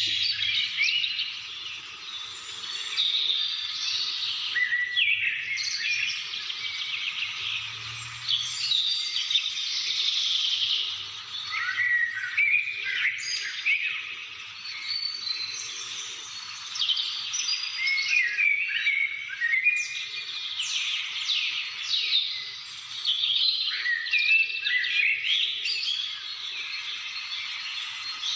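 A chorus of many birds chirping and calling at once, dense overlapping chirps and short whistles that swell and ease every few seconds.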